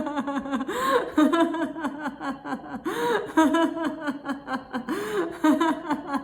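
A woman laughing without a break in quick, even ha-ha pulses: deliberate laughter-yoga laughter, laughing on purpose as an exercise.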